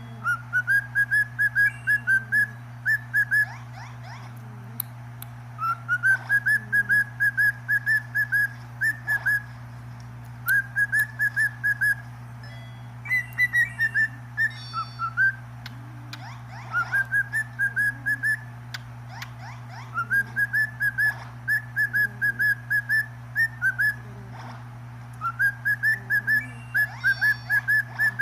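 A pet talking bird whistling its song: runs of short, evenly spaced whistled notes at a single pitch, each run opening with a quick upward slide and repeated every couple of seconds, over a steady low hum.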